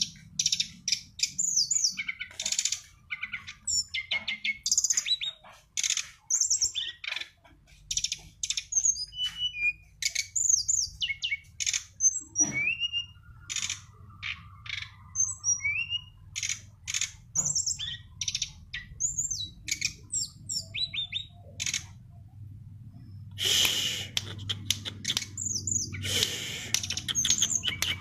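A songbird singing a fast, varied song of short whistled slurs, chirps and trills, with harsher, scratchy bursts near the end. A faint low hum runs underneath.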